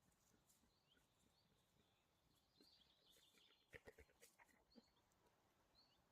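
Near silence with faint, short bird chirps now and then, and a quick run of soft clicks about four seconds in.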